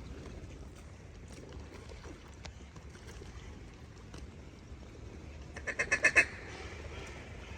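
A quick run of about eight duck quacks, getting louder, a little before six seconds in, over a low steady background rumble.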